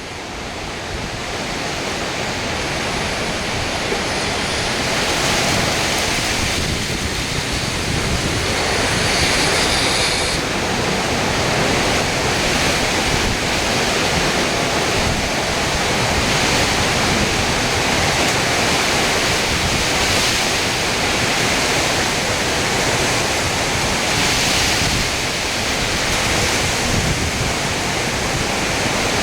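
Hurricane wind and heavy rain: a loud, steady rushing roar that swells over the first few seconds and then holds.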